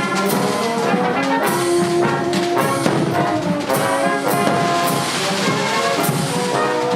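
Brass band playing a tune of held notes, with sharp cracks scattered through it.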